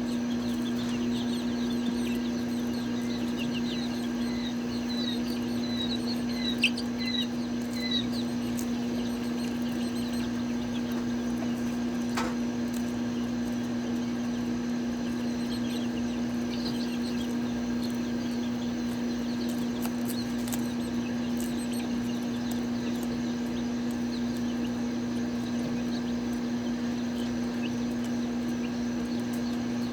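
Chicks peeping in short high chirps, busiest in the first several seconds, over a steady low mechanical hum; a single sharp click sounds about seven seconds in.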